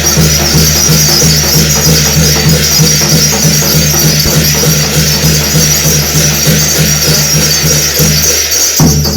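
Korean shamanic gut ritual music: a drum beating a fast, steady rhythm under a continuous jangling of metal percussion. The drum beat breaks off briefly near the end.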